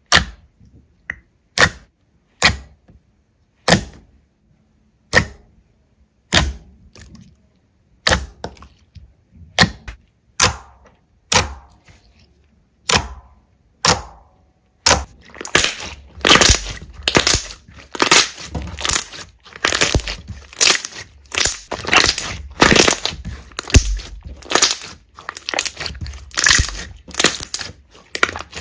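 Slime being pressed and squeezed by hands, giving sharp separate pops of trapped air about once a second, then a dense, fast run of crackling pops from about halfway.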